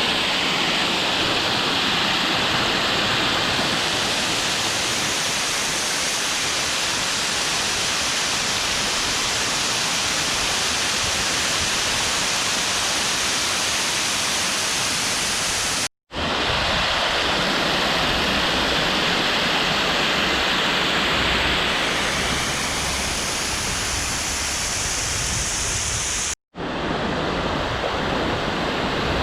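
Small waterfall: a steady, loud rush of falling water, broken twice by a sudden split-second gap.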